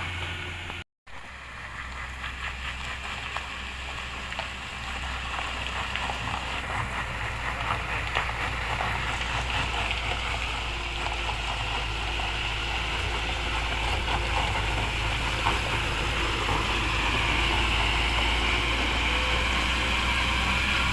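Heavy diesel truck engine running steadily under load, a low drone with a gritty crackle over it. The sound cuts out for an instant about a second in and grows a little louder near the end.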